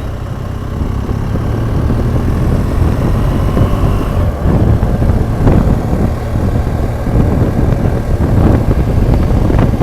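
BMW R1200GS Adventure's flat-twin boxer engine running steadily while the bike is ridden, a loud low rumble mixed with wind and road noise.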